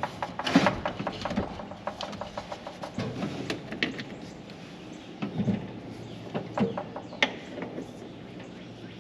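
Scattered clicks, clacks and rattles of equipment being handled, as a jump box and its cables are hooked up to a truck battery; no engine or starter is running.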